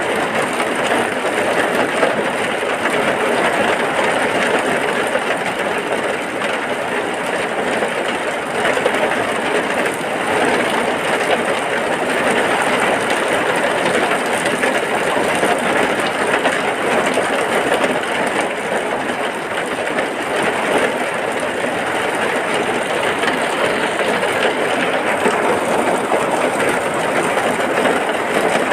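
Heavy rain falling in a steady, even rush that holds at one level without breaks.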